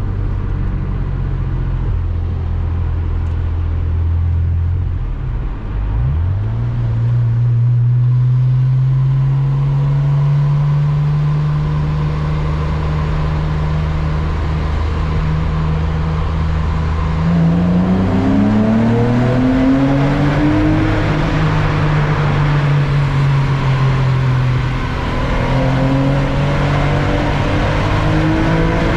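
Porsche Boxster 986's flat-six engine heard from the car while driving. It cruises steadily, dips and picks up again after a gear change about five seconds in, then climbs in revs under acceleration from about the middle, with another gear change and further pull near the end. Tyre and road noise builds as speed rises.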